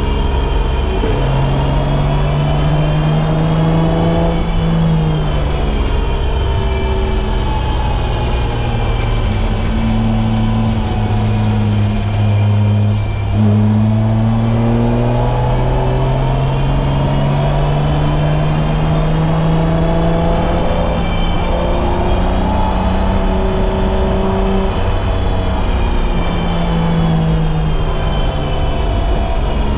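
BMW M20B25 inline-six in an E30 race car running hard on track, its pitch rising and falling with the throttle and gearchanges. About twelve seconds in the revs drop, then climb steadily for about ten seconds.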